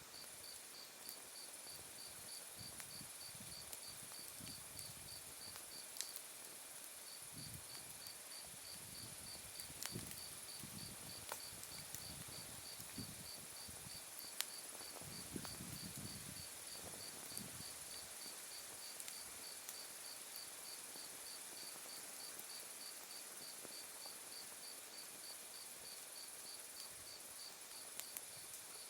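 Autumn night insects calling: one gives an evenly repeated chirp and another a steady high trill. A wood fire crackles underneath, with a few sharp pops of burning wood.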